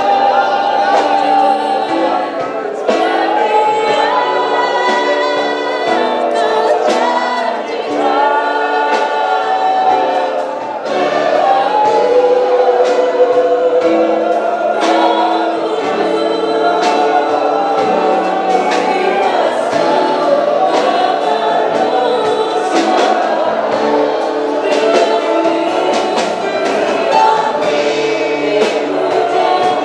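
Gospel worship song sung by a choir of voices over a band, with held, wavering sung lines and a steady drum beat.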